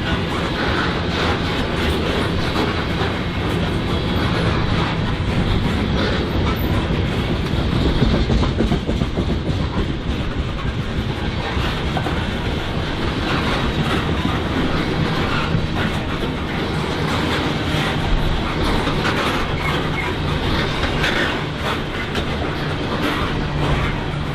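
Freight train cars rolling past, the steel wheels clacking steadily over the rails.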